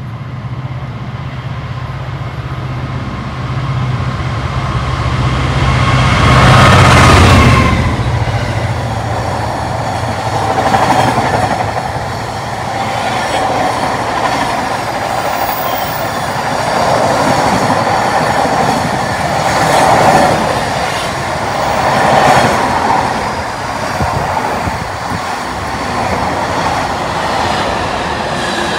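DRS Class 66 diesel locomotive, its EMD two-stroke V12 engine giving a steady low drone, running through at speed at the head of an intermodal container freight train. It is loudest as it passes about seven seconds in. After that the container wagons rumble past on the rails, swelling and fading in loudness as they go by.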